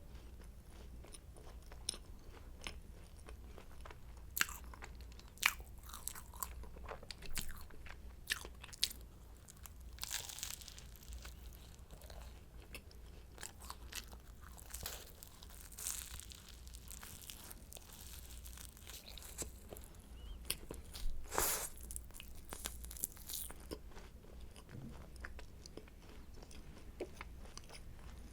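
Close-miked crunching and chewing of flaky croissant pastry: irregular crisp crackles as the layers break between the teeth, the loudest crunch about three-quarters of the way through, over a faint steady low hum.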